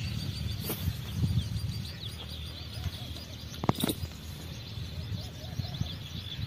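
Small birds chirping repeatedly, with two sharp clicks just past the middle.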